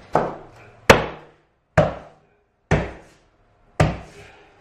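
Five sharp knocks, about one a second, as a cork click-lock floor board is tapped to close its joint.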